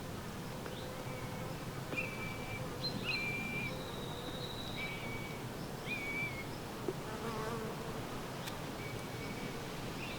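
A buzzing insect, a bee or fly, humming faintly, with a series of short high chirps repeating every second or so.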